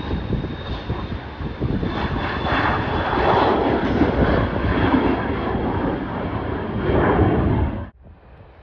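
Jet airliner's engines, a broad rumble with a thin high whine on top, swelling to their loudest in the middle as the plane goes by, then cutting off suddenly near the end.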